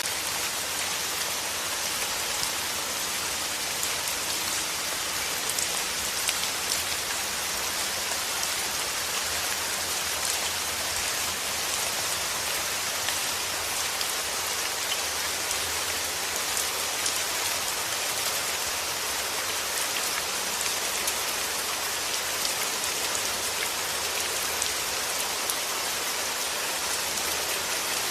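Steady rain falling on a surface: a dense, even patter with scattered sharper drop ticks.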